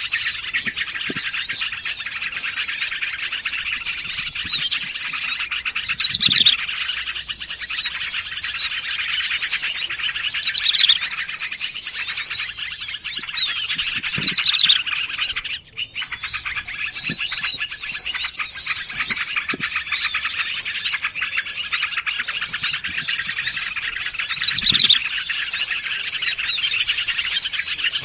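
A dense, layered bird-lure recording of small songbirds chirping and calling over one another: bulbul and prinia calls with other forest birds. A fast, high stuttering trill runs for a few seconds twice. The sound drops out briefly about halfway, where the recording loops or is joined.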